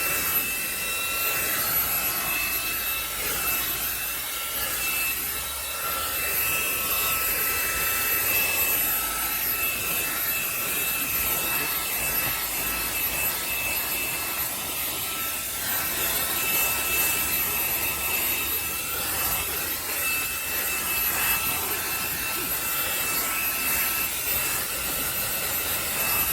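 Xiaomi Mi Vacuum Cleaner mini, a cordless handheld vacuum, running steadily: a high-pitched motor whine over the rush of its suction, the airflow noise shifting slightly as the nozzle is worked over the car's interior.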